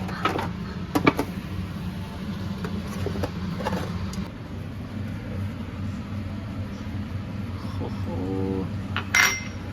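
A steady low hum, with a few sharp clicks in the first second or so, like cutlery on dishes, and a louder sharp sound just before the end.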